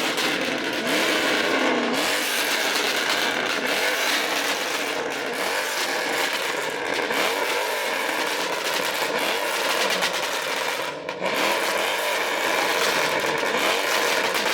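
Several car engines revving repeatedly, their rising and falling pitches overlapping in a constant loud din, with a brief dip about eleven seconds in.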